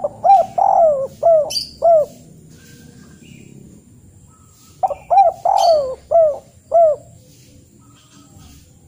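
A bird calling: two phrases of about five short notes, each rising and falling in pitch, about five seconds apart.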